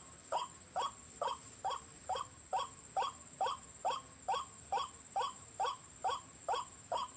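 White-breasted waterhen (ruak-ruak) calling: a rapid, evenly repeated series of short croaking notes, a little over two a second, used as a lure to draw waterhens to the snares.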